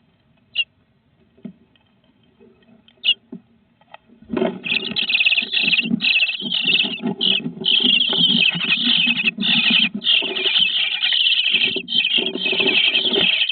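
Nestling birds in a nest box calling all together, a loud dense chatter of high chirps that starts suddenly about four seconds in, after a few faint single peeps.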